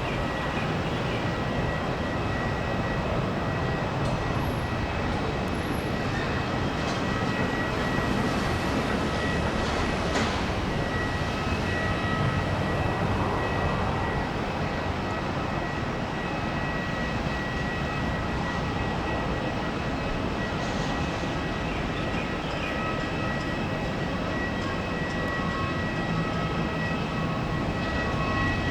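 Boeing 777 jet engines on final approach: a steady rumble with a thin, steady high whine over it.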